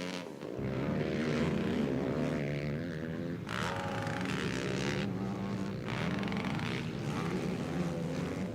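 Several racing quad engines running on a motocross track, their pitch rising and falling with the throttle.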